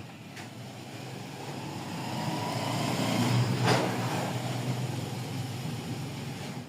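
Toyota 1RZ four-cylinder petrol engine running, getting louder about two to three seconds in and easing off again, with one sharp click partway through. The engine has a misfire that the mechanic suspects lies in an injector.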